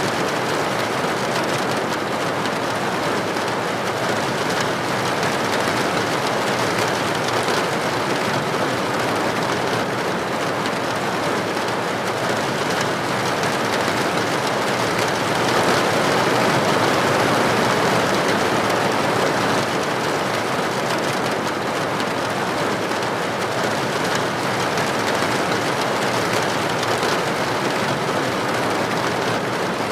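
Steady rain falling, a dense even hiss that swells slightly for a few seconds past the middle.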